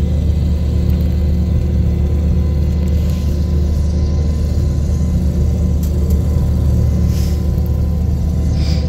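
Combine harvester running, a loud steady low engine and machinery drone heard from inside the cab.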